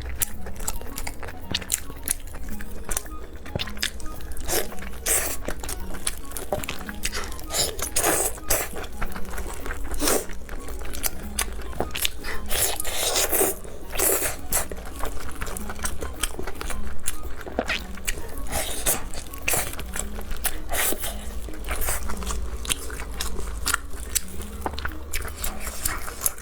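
Close-up eating sounds: crunching bites and chewing, many short sharp crunches one after another, over a steady low hum.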